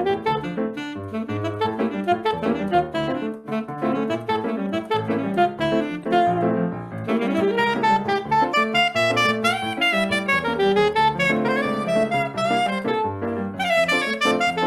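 Saxophone playing fast melodic runs in a live Brazilian jazz piece, over an accompaniment with held low bass notes.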